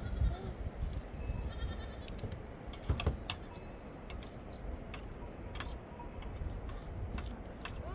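Faint bleats from livestock over a steady low rumble, with scattered light clicks.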